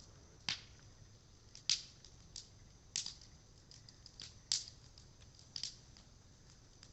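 Bonfire of reclaimed cedar wood crackling, with sharp pops at irregular intervals.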